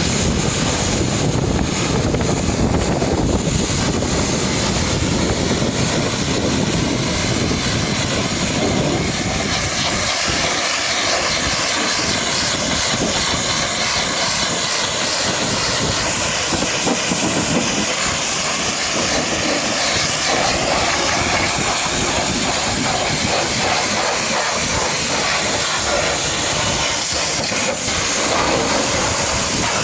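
High-pressure washer jet spraying water onto a muddy truck: a loud, steady hiss, with a heavier low rumble in the first few seconds.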